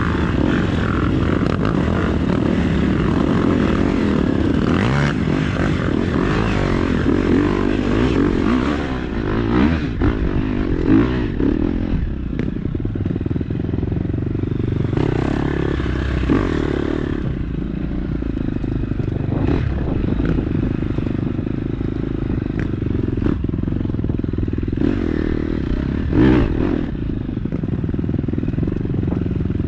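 KTM 250 dirt bike engine running under throttle, with a few sharp knocks and scrapes along the way.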